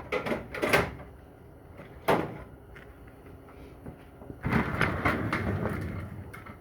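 Hand tools, pliers among them, knocking and clanking on metal transmission parts while a stuck part is worked loose. A few sharp knocks come in the first second and another about two seconds in, then a longer stretch of scraping and rattling from about halfway through.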